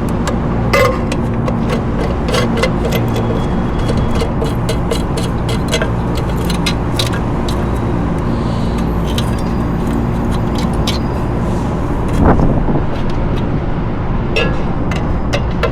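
Hand socket ratchet clicking in quick runs as nuts are loosened, over a steady low mechanical hum. A brief louder swell rises and falls about twelve seconds in.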